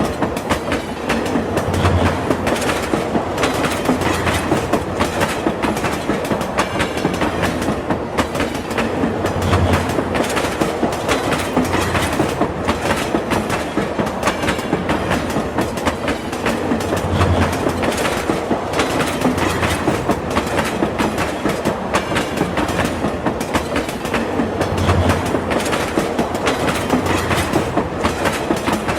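Train running on the rails: a steady rolling rumble with rapid clickety-clack from the wheels over rail joints, and a heavier low thump about every seven to eight seconds.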